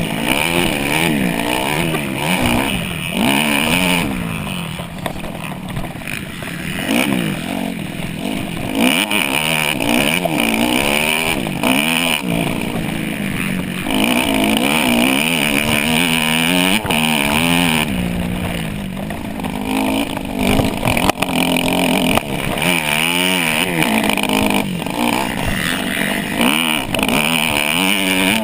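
Dirt bike engine revving hard and repeatedly, its pitch rising and falling over and over as it accelerates and backs off.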